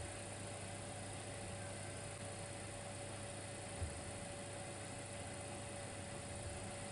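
Steady electrical hum under a constant hiss, with a faint steady tone above it and one faint tick about four seconds in.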